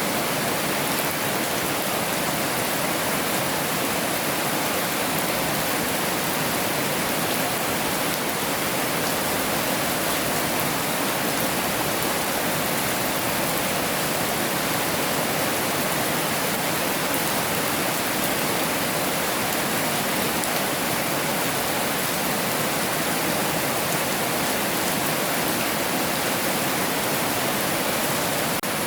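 Heavy rain falling steadily, a dense even hiss with fine scattered patter.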